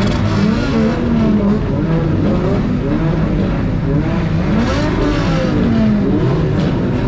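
Several car engines revving over one another, their pitch rising and falling again and again over a steady low rumble of engines.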